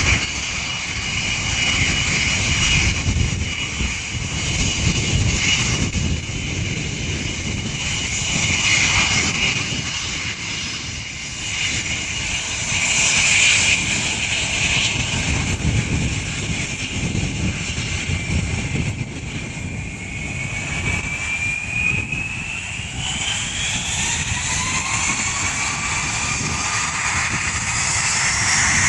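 Jet airliner engines running with a steady whine and rumble. About two-thirds of the way in, the whine rises steadily in pitch as the engines spool up.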